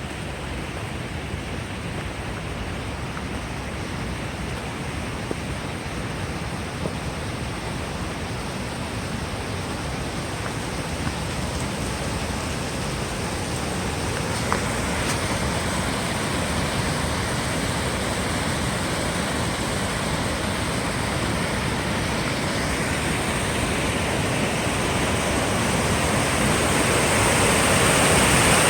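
Steady rush of falling water, growing louder over the last few seconds.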